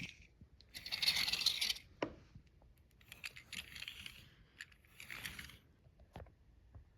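Faint scraping and rustling with a few sharp clicks, typical of small objects being handled and moved. One scrape about a second in is the loudest, and single clicks come near 2 s and 6 s.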